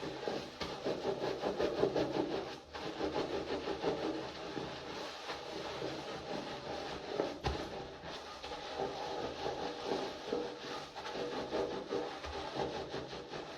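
Hands rubbing and scrubbing through wet hair: a continuous, rapid, crackly rubbing.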